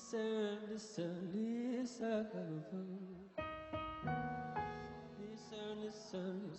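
Live hip-hop band music between rapped lines: a gliding, wavering melodic line for the first few seconds, then held keyboard chords, with sparse cymbal and drum hits.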